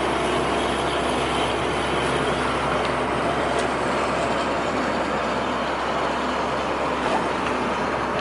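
Hino truck driving at a steady cruise: an even drone of engine with tyre and road noise, holding level throughout.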